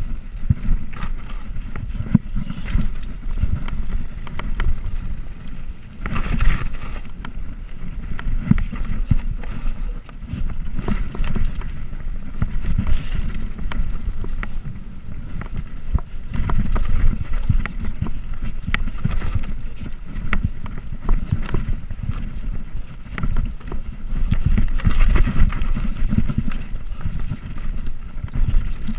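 Wind rumbling on the microphone of a moving bicycle, with many small rattles and knocks from the bike riding over the road surface.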